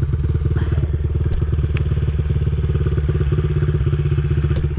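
Enduro dirt bike engine running at a steady speed, with a few sharp ticks over it.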